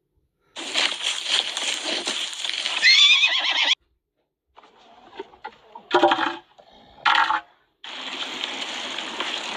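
Animal calls that start and stop abruptly. A noisy call lasts about three seconds and ends in a quavering high pitch, two short calls come around six and seven seconds in, and another long noisy call begins near the end.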